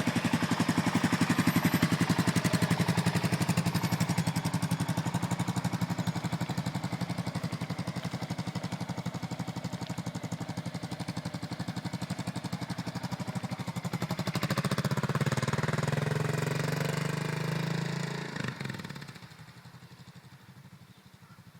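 Suzuki Savage 650's single-cylinder engine running with an even pulse, picking up revs about fourteen seconds in as the motorcycle pulls away. The sound then fades off quickly about nineteen seconds in as it rides away.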